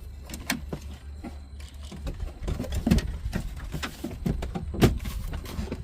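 Scattered clicks and knocks of parts and tools being handled under a car's dash while the steering column is put back in, the sharpest knocks about three and about five seconds in, over a steady low hum.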